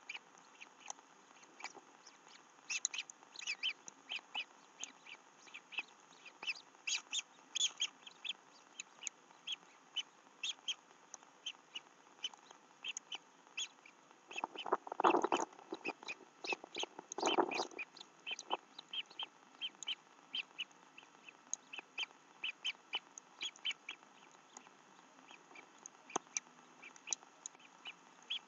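Birds calling around the nest: a steady run of short, sharp, high chirps, and near the middle two louder, lower, harsh calls about two seconds apart.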